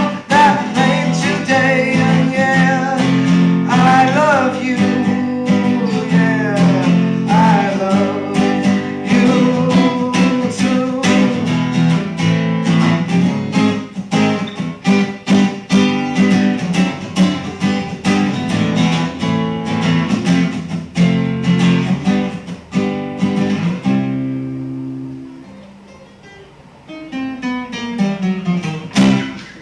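Acoustic guitar strummed in a live song outro, with a wordless sung melody over the first several seconds. The strumming dies away about 24 seconds in, leaving a few quiet picked notes near the end.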